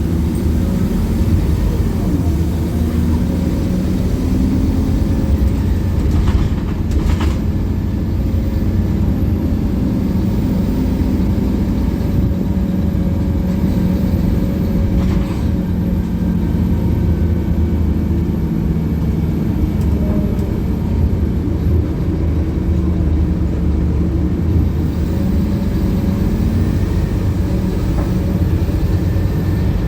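Scania K280UB bus running steadily under way, its engine note rising and falling slightly as it drives, with a faint whine coming in near the end.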